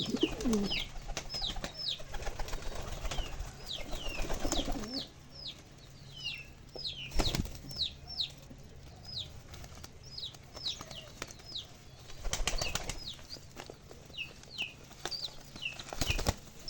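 Pigeons flapping their wings in a few short flurries, over a steady run of short, high, falling chirps from small birds.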